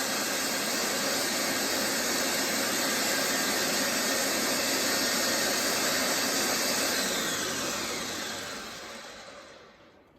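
Food processor motor running steadily, blending cooked mushrooms with oat milk. About seven seconds in it is switched off and winds down, falling in pitch, to a stop near the end.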